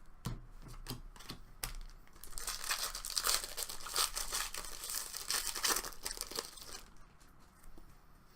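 A trading-card pack's foil wrapper being torn open and crinkled by hand. A few light clicks of cards being handled come first, then about five seconds of steady tearing and crinkling.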